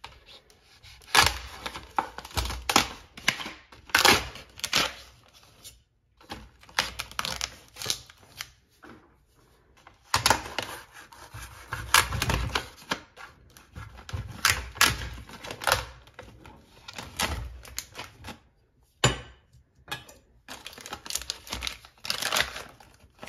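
Plastic water bottles and their plastic wrap being handled: irregular crinkling, clicks and knocks as the case is opened and bottles set down.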